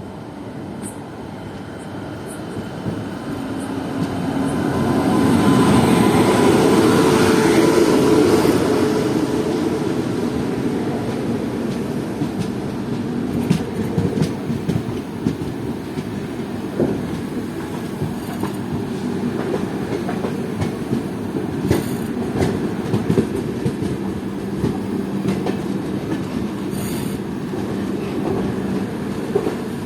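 Moving passenger train running on the track: a steady rumble and wheel-on-rail noise that swells louder between about four and ten seconds in, then settles. A few sharp clicks of the wheels over rail joints come later.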